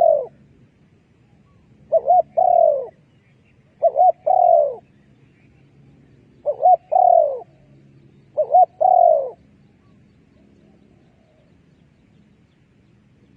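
Spotted dove cooing: a repeated three-part call of two short notes and a longer falling coo, given about every two seconds. The calls stop after about nine seconds.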